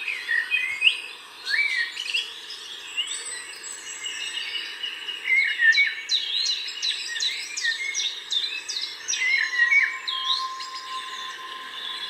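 Several wild birds singing and calling at once: rapid overlapping chirps and short whistled notes that swoop up and down in pitch.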